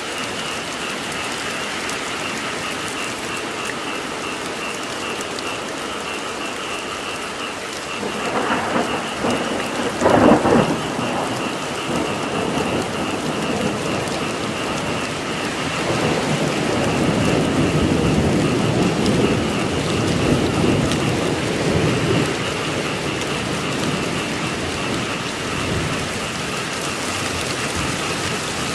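Steady heavy rain with a constant high chorus of frogs calling. Thunder rumbles in about eight seconds in, with its loudest crack near ten seconds, then a longer low roll of thunder a few seconds later.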